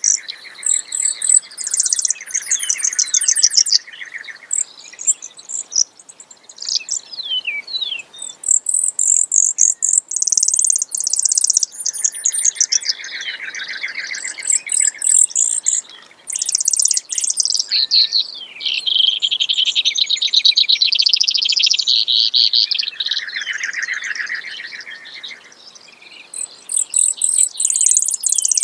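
Brewer's sparrow singing a long, rambling song of rapid trills, each lasting a second or two, switching back and forth between high and lower pitches.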